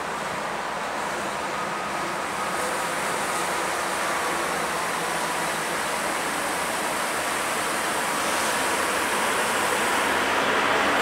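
ET22 electric freight locomotive and its train of Talbot hopper wagons passing close by: a steady rush of wheel-on-rail noise that grows louder near the end as the wagons roll past.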